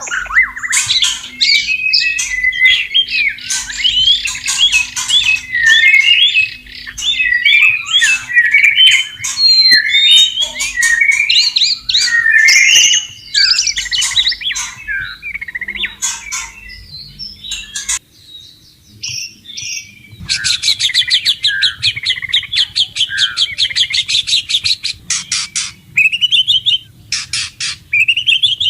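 White-rumped shama singing a loud, fast, varied song of whistled and warbled phrases. It breaks off for a moment about two-thirds of the way through, then gives a long, rapid rattling trill and a few more short phrases.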